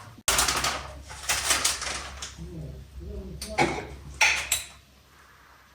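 A kitchen utensil clattering and scraping against a dish in a few short bursts while a sauce is mixed, dying down near the end.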